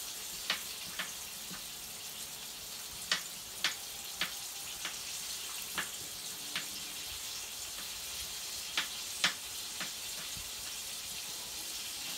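Turkey chops frying in a nonstick skillet: a steady sizzle broken by irregular sharp pops of spattering fat.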